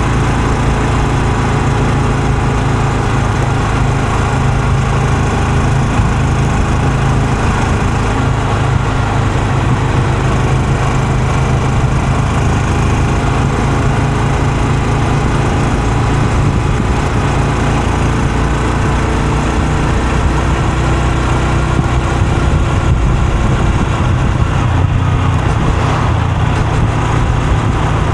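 Honda Super Cub C125's single-cylinder four-stroke engine and exhaust running at a steady, low engine speed.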